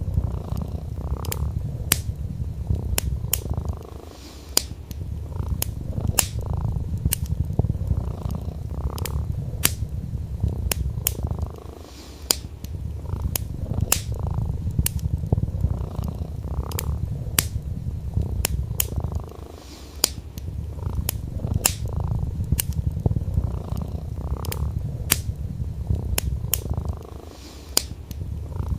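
Domestic cat purring in a low, continuous rumble that drops away briefly about every seven or eight seconds, over a wood fire crackling with sharp pops a few times a second.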